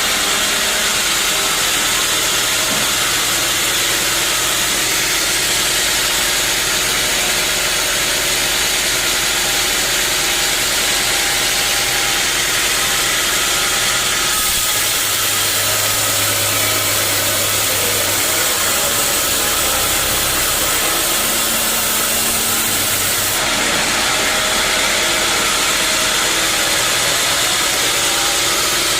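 Bandsaw sawmill running steadily through a log, a loud even mix of engine drone and blade hiss that shifts in tone about halfway through and again near the end.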